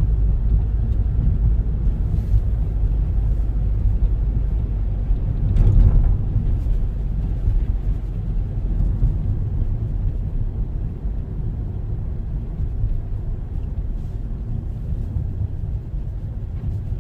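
Car driving, heard from inside the cabin: a steady low rumble of road and engine noise, briefly louder about six seconds in.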